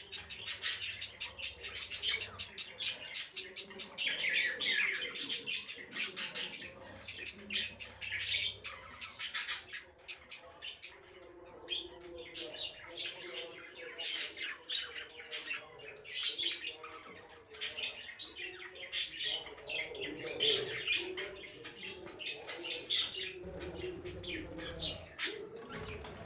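A colony of budgerigars chirping and chattering, a dense run of rapid high chirps that thins out a little partway through.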